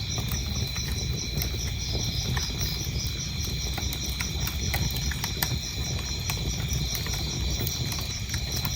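Wood fire crackling in a fireplace: frequent sharp pops and snaps over a low, steady rumble of burning logs. Crickets chirp in a fast, even pulse alongside a steady high trill.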